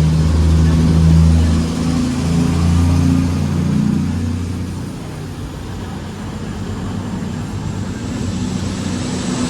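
Diesel engines of a four-coach Class 220 Voyager multiple unit rumbling under power as the train pulls away. The rumble is loudest for the first few seconds, eases off in the middle and swells again near the end.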